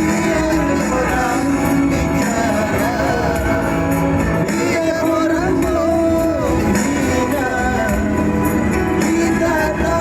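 A singer performing a song over instrumental backing, the sung melody holding long, wavering notes.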